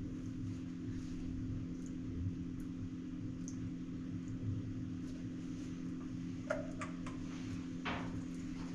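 Steady low mechanical hum with a few light knocks about six and a half to eight seconds in.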